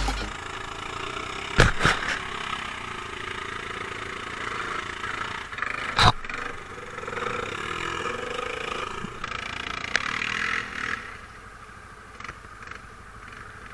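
Quad-bike engine running, its pitch rising about eight seconds in, with sharp knocks about two and six seconds in; it drops quieter near the end.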